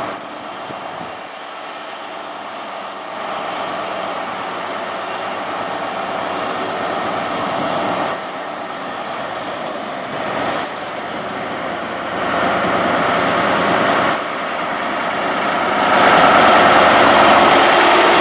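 InterCity 125 High Speed Train departing, with its class 43 diesel power cars and coaches running past. It grows louder in steps and is loudest near the end, as the rear power car comes by.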